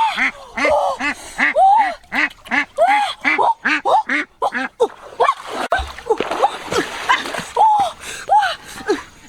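Ducks and geese calling: a quick run of short quacks, about three a second, through the first half, mixed with louder, higher-pitched honking calls throughout.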